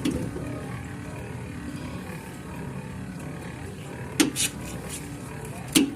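Two sharp knocks about a second and a half apart over a steady low background hum.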